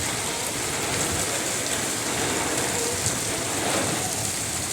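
Heavy rain pouring down steadily in a windy thunderstorm, with no hail in it.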